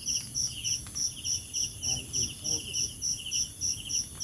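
Night insects chirping in a steady rhythm, about three high pulses a second over a continuous high-pitched buzz.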